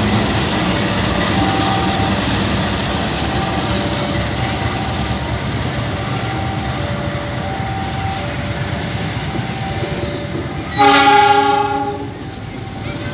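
A passenger train running past on the rails, with a steady rail rumble and a short two-note tone repeating every second or so. About eleven seconds in, the diesel locomotive's horn sounds once, loud, for about a second.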